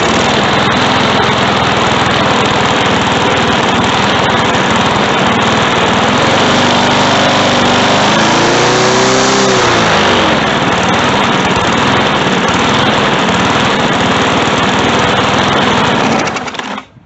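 Briggs and Stratton push-mower engine running loud, its speed dipping and climbing back once about eight to ten seconds in, then cut off near the end. The engine is surging, which the owner puts down to a governor spring too weak to hold the speed steady.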